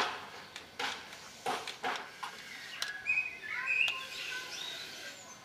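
A few sharp clicks in the first half, then a small bird chirping in short quick notes from about three seconds in.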